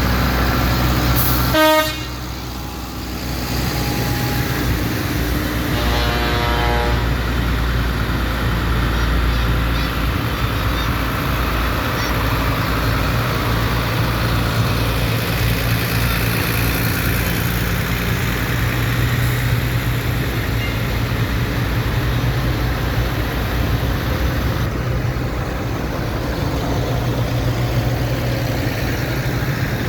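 Tractor engines running steadily, with a short horn toot about two seconds in and another, slightly longer toot around six seconds in.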